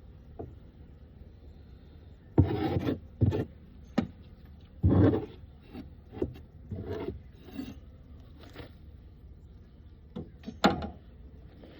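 Wooden beehive frames and boxes being scraped and pried apart: a run of irregular scrapes and rubs with a few sharp knocks, the loudest about two and a half seconds in, around five seconds, and near the end.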